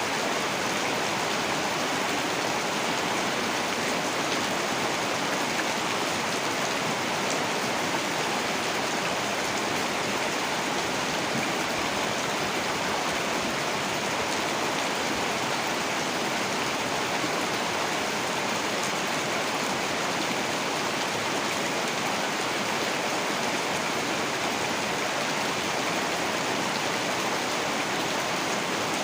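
Heavy rain falling in a steady, dense hiss, with no breaks or thunder.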